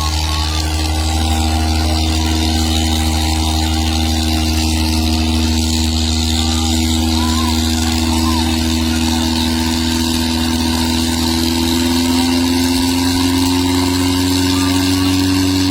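Mahindra tractor diesel engines running steadily under heavy load in a tug-of-war pull, their pitch creeping slowly up in the last few seconds.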